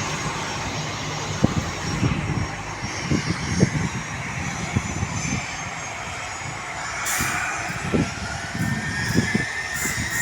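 Aircraft engines running, a steady loud rush, with a whine that slowly rises in pitch over the last few seconds and scattered low thumps.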